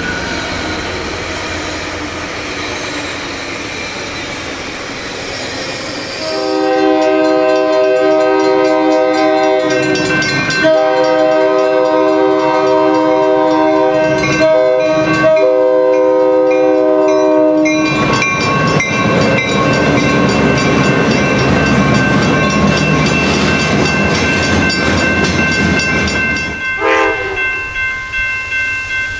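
Train passing and sounding its multi-note air horn from about six seconds in, in the grade-crossing pattern: two long blasts, a short one, then a long one. After the horn, steady rail noise with a high ringing tone, turning to a quick rhythmic clatter near the end.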